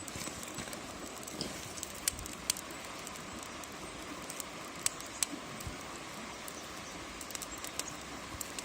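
Small fire of kindling crackling, with a few sharp snaps, over a steady rushing hiss.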